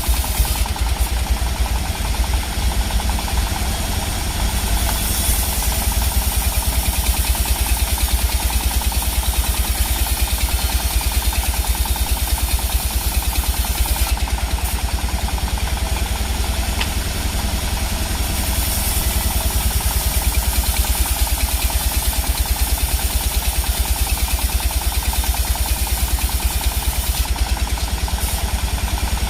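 Sawmill machinery running steadily: an engine-like drone with a rapid, even pulse and a strong low rumble.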